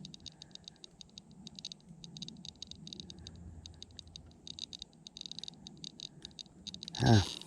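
Tri-field meter's speaker chattering in rapid bursts of high clicks that come and go in clusters, the meter reacting to a fluctuating field reading. Near the end there is one brief loud low sound.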